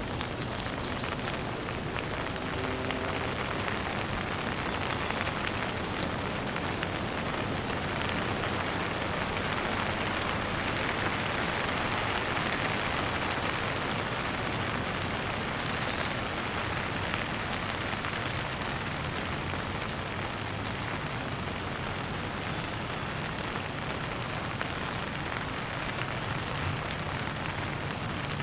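Steady rain falling and pattering on surfaces, with a bird giving a brief high chirping about halfway through.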